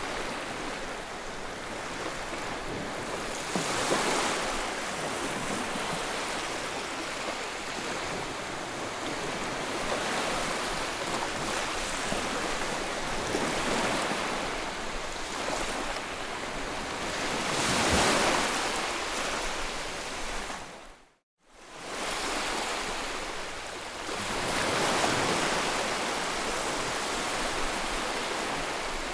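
Ocean surf, waves washing in and swelling every few seconds. The sound briefly drops out to silence about two-thirds of the way through, then fades back in.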